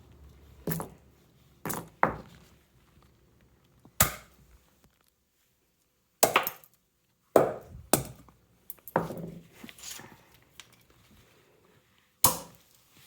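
Walnut shells being struck and broken into smaller pieces: about nine sharp knocks with a crunch, spaced irregularly.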